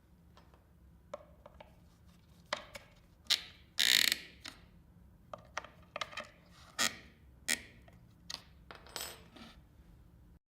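Irregular sharp clicks and knocks of hard parts being handled and fitted together, about a dozen, with a louder clatter about four seconds in: typical of wooden divider panels and Clamex P-15 connectors being assembled.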